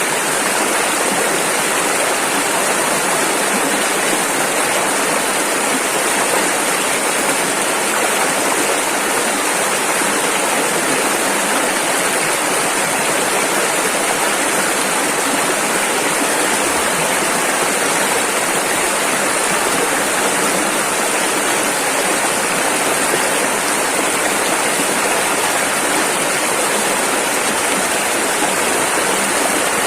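Rushing river: a steady, loud, unbroken rush of fast-flowing water.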